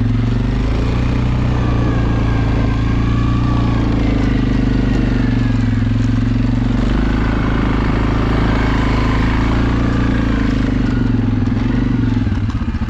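Suzuki KingQuad ATV's single-cylinder engine running steadily under throttle while riding. Near the end the throttle eases off and the note drops into slower, separate pulses.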